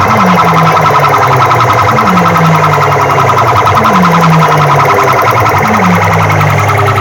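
Very loud DJ sound-system music played through big speaker rigs, heavy with siren-like electronic effects. A low falling tone sweeps down about every two seconds over a fast, rapid pulsing.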